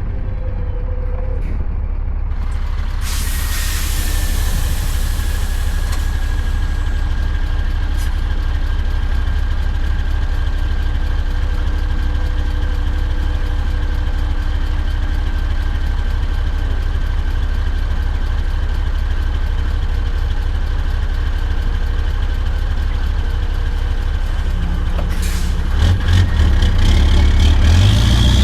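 Scania R580's V8 diesel with an 8-inch straight pipe idling with a steady deep rumble. About three seconds in there is a hiss of compressed air from the air brakes, and near the end the engine note rises and gets louder as it revs.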